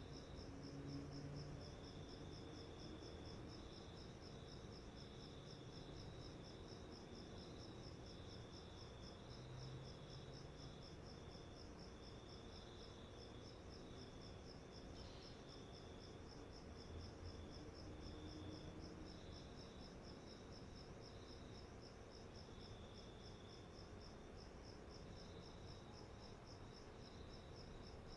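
Faint insect chirping, cricket-like: a steady, evenly pulsed high trill that never stops, with a fainter broken chirping just below it.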